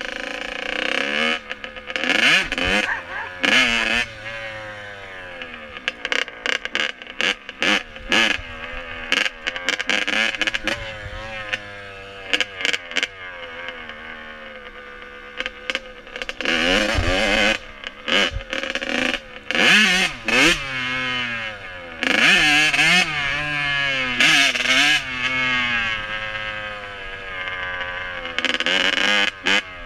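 Dirt bike engine revving up and down again and again, with many sharp rattling knocks throughout.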